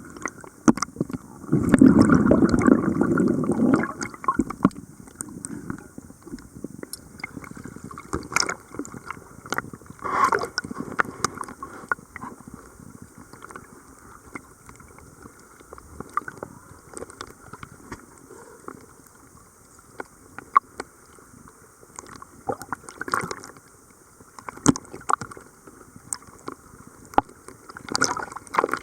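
Water gurgling and bubbling, with a louder rush of bubbles from about one and a half to four seconds in, then quieter sloshing broken by sharp clicks and short surges.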